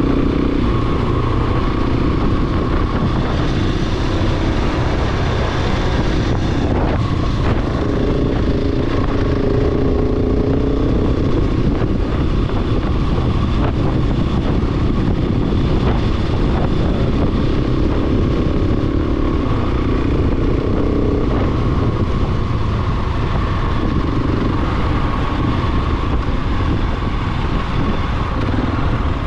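Single-cylinder 690 cc dirt bike engine running while riding, its pitch rising and falling with the throttle over a steady low rumble. A few brief knocks come about a quarter of the way in.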